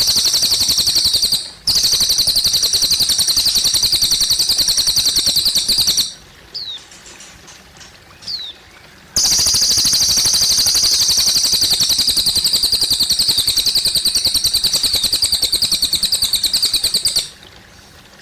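Cililin bird singing long, very fast, high trills, three stretches of several seconds each. In the pause between them, trickling water and a few short down-slurred chirps can be heard.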